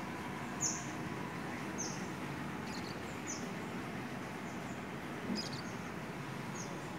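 A small bird chirping, a short high chirp repeated about once a second, over a steady background hum of ambient noise.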